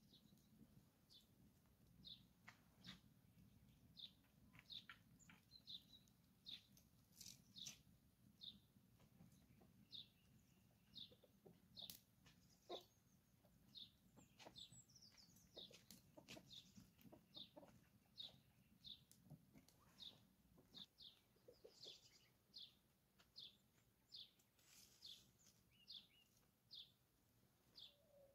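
Faint, steady series of short high bird chirps, roughly one a second, over a low background hum.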